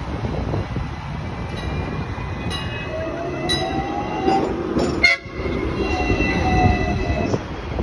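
Hong Kong double-decker electric tram running along its street track, with wheel and track rumble, a few clicks, and an electric motor whine that rises in pitch twice.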